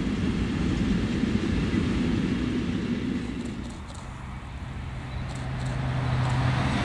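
Container freight train rolling past, wagons on the rails making a steady rumble. About three and a half seconds in this gives way to a quieter scene where an approaching double-deck TGV high-speed train brings in a steady low hum that grows louder.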